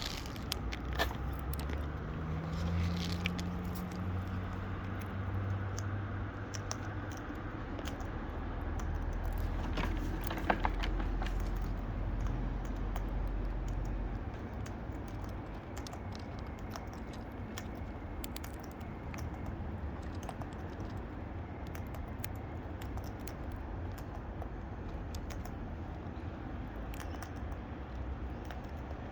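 A road vehicle goes by with a low engine rumble that fades out about halfway through. Scattered small clicks and crunches run throughout: parrots eating fruit and seeds at a feeder.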